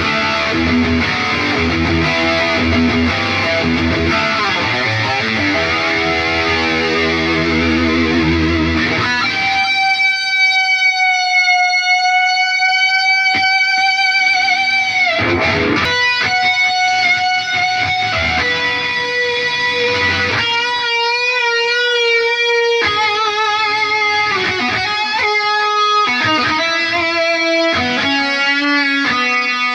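Electric guitar played through an Atomic AmpliFire modeler pedal into cheap computer speakers. About nine seconds of dense distorted chords are followed by single sustained lead notes with wide vibrato and quicker melodic runs.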